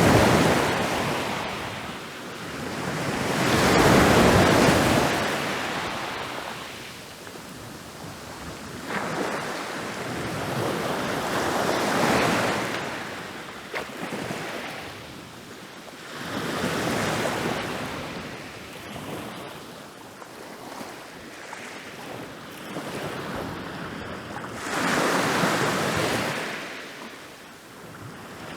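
Ocean waves breaking and rolling onto a beach, surging and falling away in turn about every four to eight seconds, with the biggest break about four seconds in.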